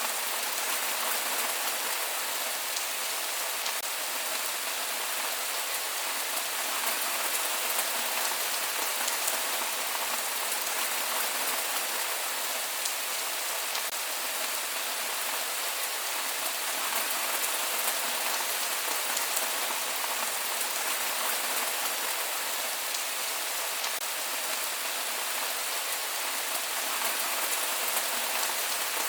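Real rain falling steadily, with no thunder: an even hiss flecked with the fine ticks of individual drops.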